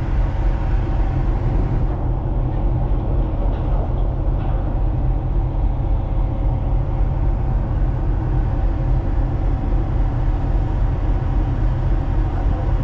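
Steady low rumble of a tanker's machinery on board, with a constant droning hum over it.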